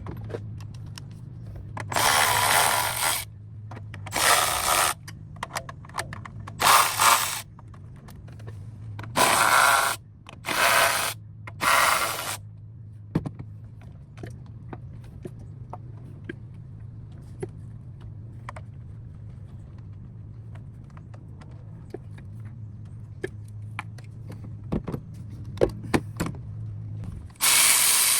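A power tool runs in short bursts, seven times, with scattered clicks between, as the intake manifold is being unbolted. A steady low hum runs underneath.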